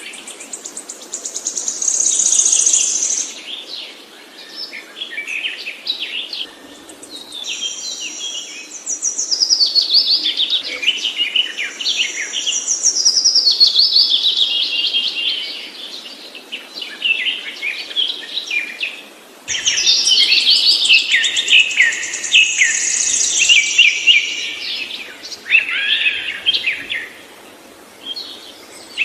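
A songbird singing long phrases of rapid, warbling notes and trills, with short pauses between phrases. The song jumps abruptly about two-thirds of the way through, like a splice in the recording.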